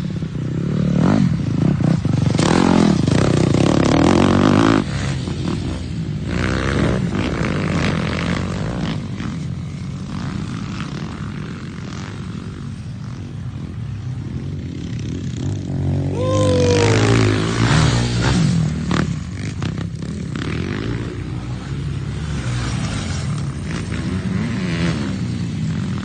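Dirt bike engines revving and riding past on a motocross track, the pitch rising and falling with the throttle. They are loudest about two to five seconds in and again around sixteen to eighteen seconds.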